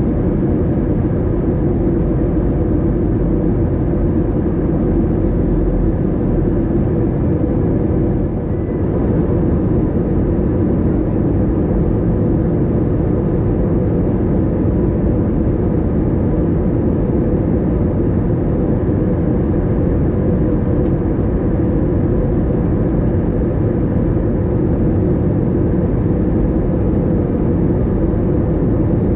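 Steady engine and airflow rumble inside the cabin of an Airbus A321, with a brief dip in loudness about eight and a half seconds in.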